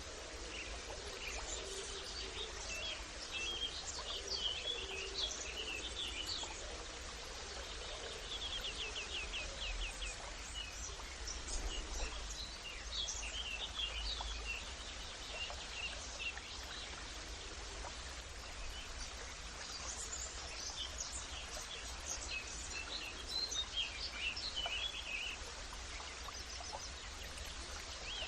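Several birds chirping and calling over a steady background hiss and low rumble, with a fast trill of quick repeated notes about eight to ten seconds in.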